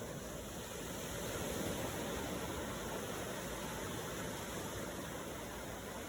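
Ocean waves washing in a steady rush, swelling slightly about one to two seconds in.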